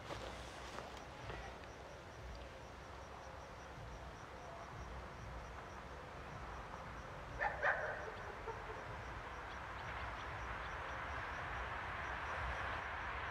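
Distant approaching train, its rolling noise growing steadily louder in the second half. A dog barks a couple of times a little past halfway.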